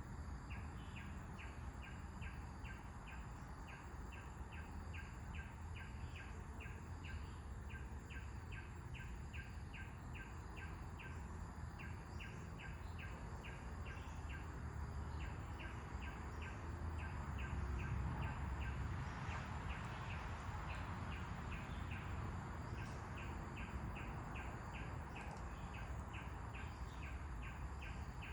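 Birds chirping outdoors over wind noise: a quick repeated chirp about three times a second runs through it, while wind rumbles low and swells for a few seconds around the middle.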